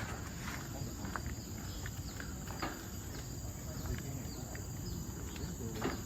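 Forest insects, crickets or cicadas, keep up a steady high-pitched drone, with short scattered chirps and ticks over a low rumble.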